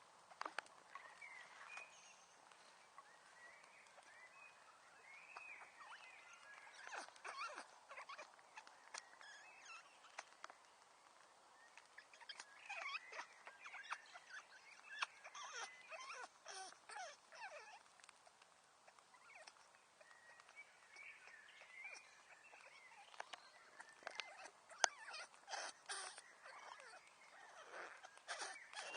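Wood fire crackling, with sharp irregular pops and clicks that come in thicker clusters at times, and short high squeaks sliding up and down between them.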